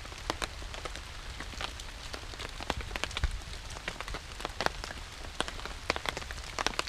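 Steady rain, with many irregular sharp drop taps close to the microphone.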